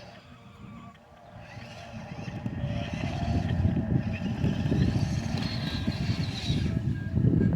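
Radio-controlled model truck driving over rough ground: a crackling, rumbling noise of tyres and chassis that builds from about two seconds in, with a faint rising electric motor whine.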